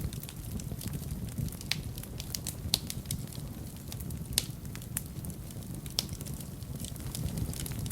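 Wood fire burning in a fireplace: irregular crackling with a few sharper pops, over a steady low rumble of the flames.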